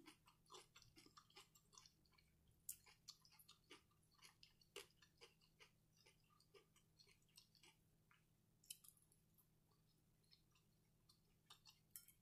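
Faint chewing and wet mouth sounds of a person eating, made up of small irregular clicks several times a second.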